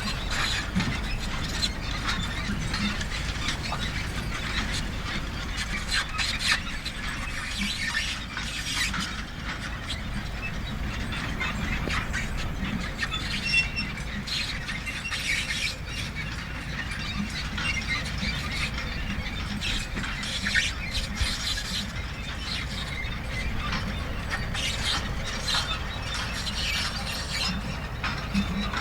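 Manure spreader running, its chains, beaters and gears clanking and squeaking without a break over a steady low rumble.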